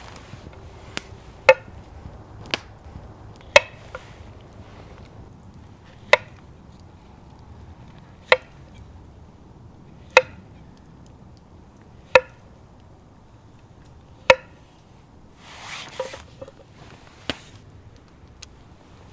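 Knife chopping on a wooden cutting board, one sharp knock about every two seconds, with a short rustle near the end.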